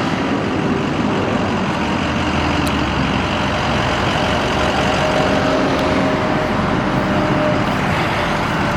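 Vermeer vacuum truck running, a steady, loud mechanical noise with a faint engine tone wavering through it.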